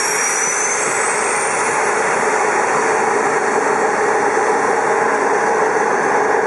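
Train running steadily: a loud, continuous mechanical noise, with a thin high whine that comes in at the start and rises in pitch over the first two seconds.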